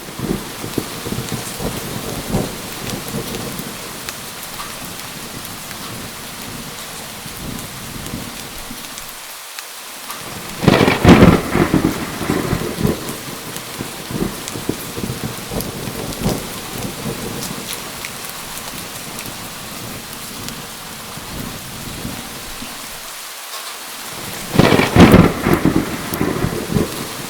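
Steady heavy rain with two thunder crashes, one about eleven seconds in and one near the end, each a cluster of loud cracks that rolls off over a couple of seconds.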